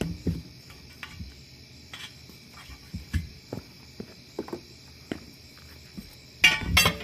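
Crickets chirring steadily, with scattered short knocks and clunks of work on the truck tire and a louder rattling burst near the end.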